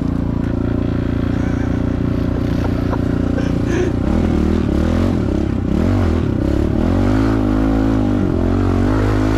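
Pit bike's small single-cylinder four-stroke engine running at a steady pitch, then from about four seconds in revving up and down repeatedly as it is ridden along the trail.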